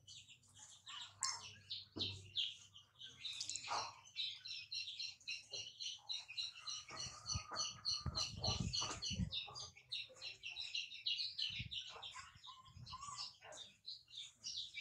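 Small birds chirping rapidly and continuously, with a few low bumps about halfway through.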